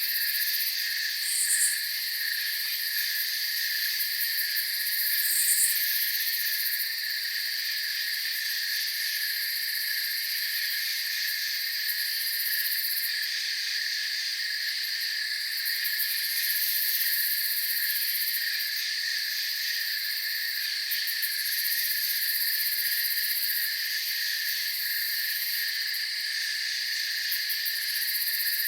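Night chorus of crickets and other insects: a steady, unbroken trill held on several high pitches at once, with the highest layer pulsing. Two short, higher chirps stand out about one and a half and five and a half seconds in.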